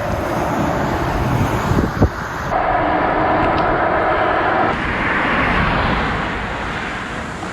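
Wind rushing over the microphone of a moving bicycle riding into a headwind, with road traffic going by; a single knock about two seconds in, and a steady hum between about two and a half and four and a half seconds in that cuts off suddenly.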